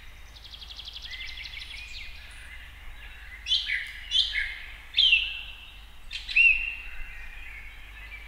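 Songbirds chirping: a quick trill about a second in, then several short calls that slide downward in pitch.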